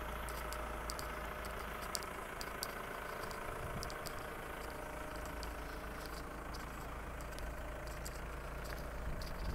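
Audi Q5 2.0 TDI's four-cylinder turbodiesel idling steadily, with scattered light ticks over the hum.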